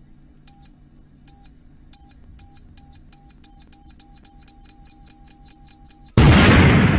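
Time-bomb countdown sound effect: a high electronic beep repeats faster and faster until the beeps run together, over a faint low hum. About six seconds in, a loud explosion cuts in and slowly dies away.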